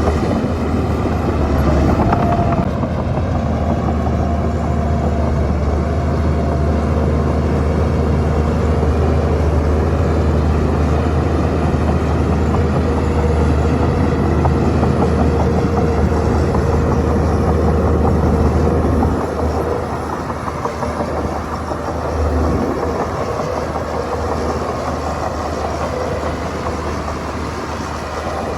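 Diesel engine of a Shantui bulldozer running steadily under load, with a deep low rumble; it eases off somewhat about two-thirds of the way through.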